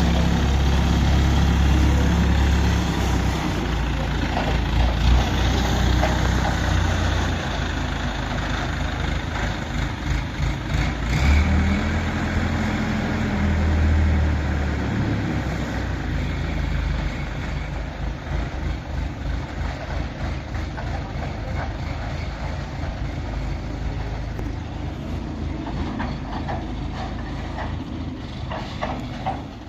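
Heavy diesel engine running. It is revved, pitch rising, about eleven seconds in, then drops back to a quieter, rougher rumble for the rest.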